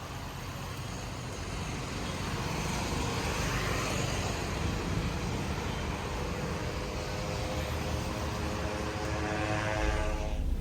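Steady roar of a moving vehicle, slowly growing louder.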